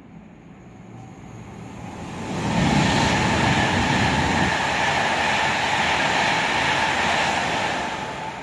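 Virgin express passenger train passing at speed below. The rush of the train swells over the first couple of seconds, stays loud for about five seconds with a heavy low rumble at the front of the pass, then fades near the end.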